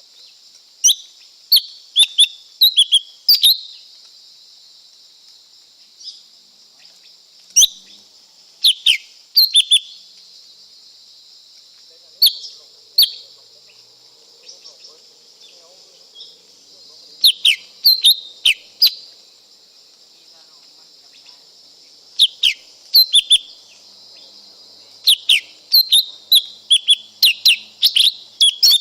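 Lesser green leafbird calling: short, sharp, mostly down-slurred notes given in quick clusters of three to eight, with pauses of a few seconds between bouts. A steady high-pitched hiss runs underneath.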